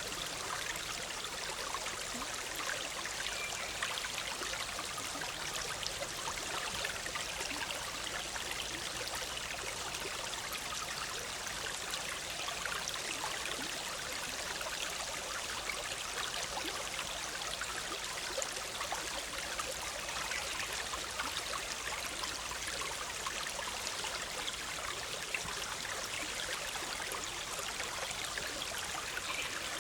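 Small forest stream running over rocks: a steady babbling and trickling of water.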